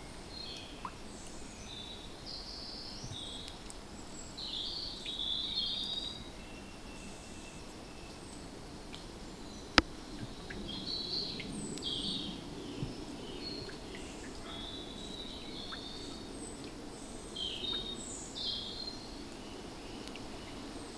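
Small woodland birds chirping and singing in short phrases, over a steady low background hum. About ten seconds in comes one sharp tap, with a few fainter ticks around it.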